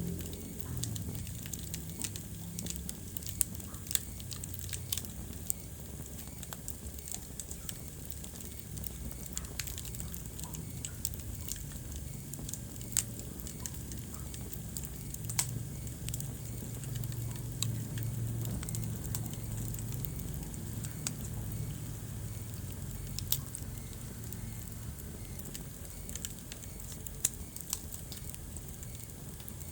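Wood fire crackling in a fireplace: irregular sharp pops and snaps, a few louder than the rest, over a steady low rumble and hiss of the burning fire.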